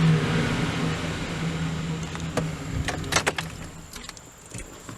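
2008 Chevy Silverado 1500's engine running, heard from inside the cab as a steady low hum that eases off toward the end. A few sharp clicks come about two and a half to three seconds in.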